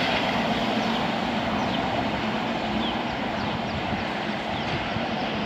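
Express train running through at speed: a steady rush of wheels on rails with a low hum, easing slightly in level.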